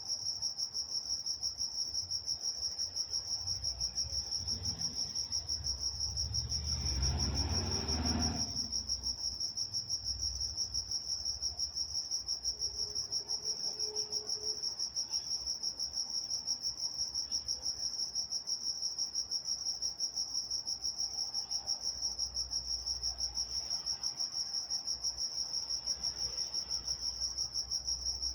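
Night-time chorus of crickets, a steady high chirping pulsing in an even rapid rhythm. About a quarter of the way in, a low rumble swells and fades under it.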